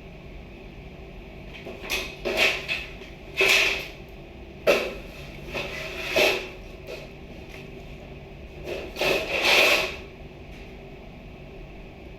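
Heavy items being shifted and set down: about ten irregular scrapes and knocks, some like wood or furniture handled, between about two and ten seconds in, over a steady background hum.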